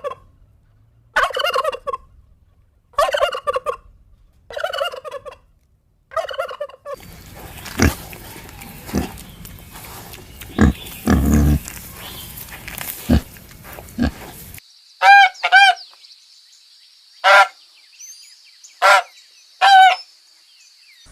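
Domestic fowl calling. It opens with a run of five turkey gobbles, one about every second and a half. A noisy stretch with scattered knocks follows, then short, sharp fowl calls over a steady high hiss.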